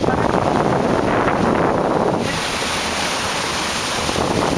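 Wind buffeting the microphone over water rushing and splashing along a moving boat. The hiss eases about two seconds in and picks up again near the end.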